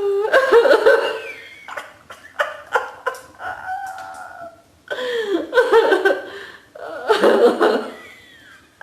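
Laughter-yoga laughing: a person laughing out loud in about four bursts, the voice sliding up and down in pitch.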